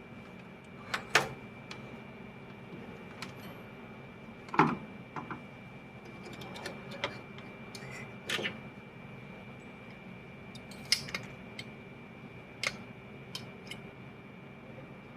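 Irregular light clicks and taps of small tools being handled at a soldering bench, a dozen or so, the loudest about four and a half seconds in, over a steady faint hum and a thin high whine.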